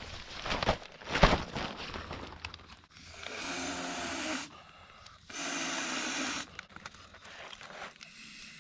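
Camping gear being handled while a tent is set up: a few sharp knocks and clacks, then two rasping pulls of about a second each.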